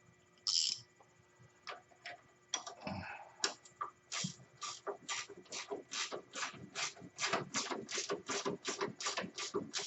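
Hand socket ratchet clicking in a steady rhythm, about three clicks a second, as bolts on the ATV's front suspension are run down. A few scattered handling noises come before the ratchet starts.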